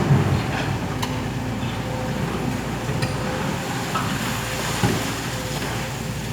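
Heavy diesel earthmoving machinery running steadily, with a few metallic clanks and knocks over the engine noise and a steady mid-pitched tone.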